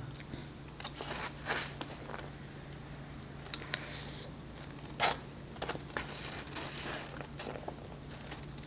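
Close-miked eating: bites and chewing of shredded beef tacos, with scattered short crunches and mouth clicks, the sharpest about a second and a half in and about five seconds in.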